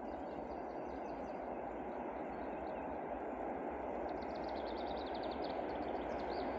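Distant rumble of a freight train led by two ST44 diesel locomotives approaching, slowly growing louder. A small bird's rapid trill of high notes comes in about four seconds in.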